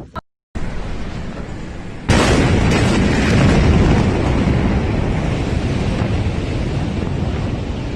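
A massive explosion: a steady rush of noise, then about two seconds in a sudden, much louder blast that goes on as a long, loud rumble for about six seconds.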